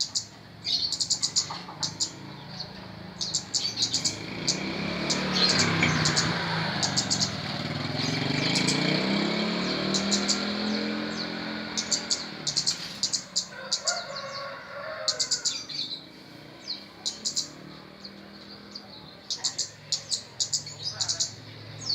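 A kemade songbird chirping over and over in quick runs of short, high notes. A vehicle passes in the background, swelling and fading between about four and twelve seconds in.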